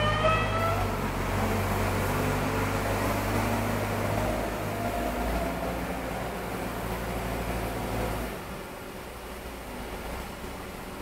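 Heavy diesel engine running at a steady pace, with a high whine that rises and cuts out in the first second; the engine sound drops quieter about eight seconds in.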